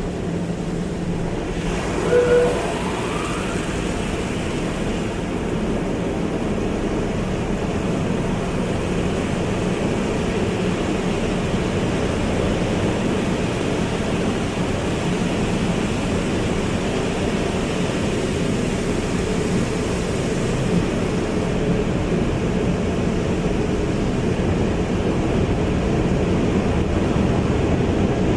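Automatic car wash running: a steady rush of water spray and machinery, with one short squeak about two seconds in.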